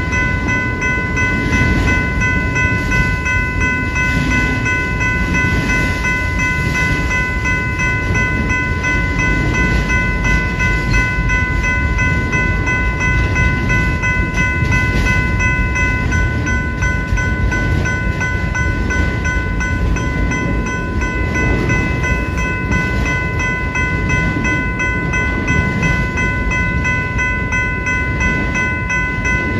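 Railroad crossing warning bell ringing continuously in rapid strokes over the loud, steady rumble of a passing train.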